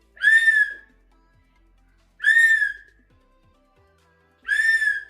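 A shrill whistle-like tone sounds three times, about two seconds apart. Each one lasts under a second and rises and falls slightly in pitch.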